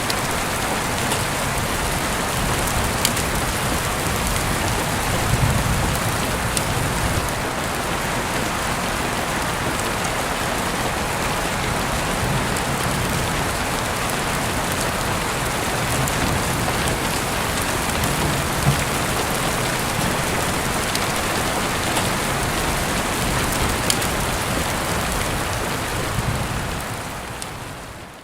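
Heavy rain heard through an open window, falling steadily with a few sharper drip ticks, fading out over the last couple of seconds.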